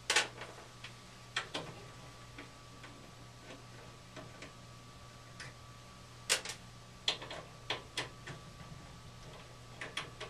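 Irregular sharp metallic clicks and taps as tools and furnace burner parts are handled while the burners are unfastened and pulled for cleaning, over a faint steady hum.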